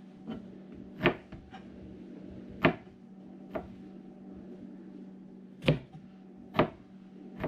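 Knife slicing through an onion onto a cutting board: about six separate, unevenly spaced cuts, each a sharp knock, over a steady low hum.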